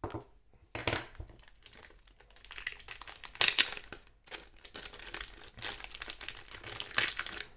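Crinkling plastic rustles and light clicks from small smartphone parts and their packaging being handled, in short irregular bursts.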